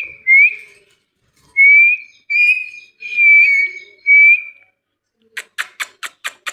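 Ringneck parrot whistling: five short whistle notes, each rising slightly, then a fast run of sharp chirps, about six a second, near the end.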